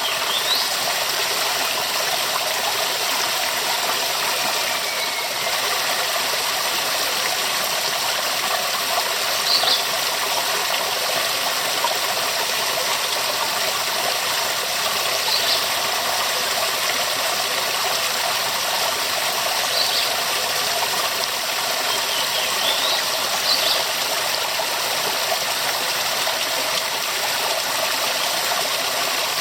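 Waterfall's water falling and splashing in a steady, even rush. A few faint, brief high chirps sound over it now and then.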